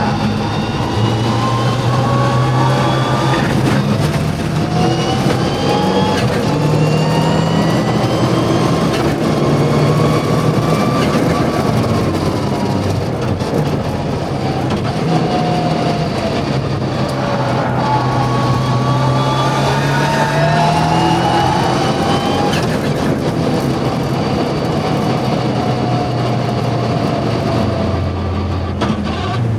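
Mitsubishi Evo VI Group A rally car's turbocharged four-cylinder engine at full throttle on track, its pitch climbing through each gear and dropping at every upshift, again and again.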